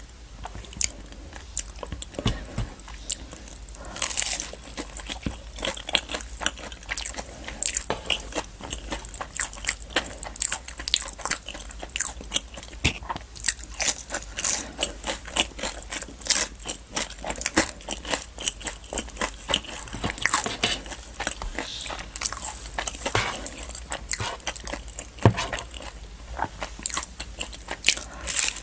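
Close-miked biting and chewing of a fried samosa dipped in curry: a continuous irregular run of crisp pastry crunches with moist chewing.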